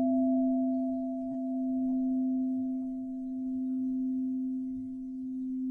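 A crystal singing bowl rings on after a single strike, one low sustained tone with a fainter higher overtone, slowly swelling and fading as it dies away. It is played for the root chakra.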